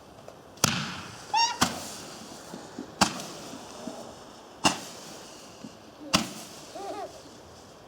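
Garden firework going off with five loud bangs, about one every second and a half. Two short high-pitched squeals come after the second bang and near the end.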